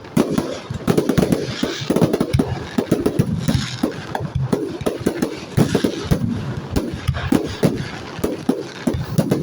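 Aerial fireworks going off in a rapid, continuous barrage of bangs and crackles, several reports a second.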